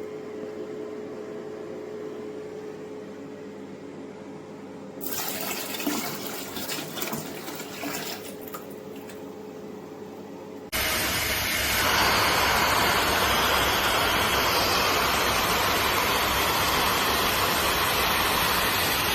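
Portable upholstery wet vacuum. A quieter stretch with a steady hum and some crackling, then about ten seconds in the machine switches on with a sudden, loud, steady rush of suction drawing water.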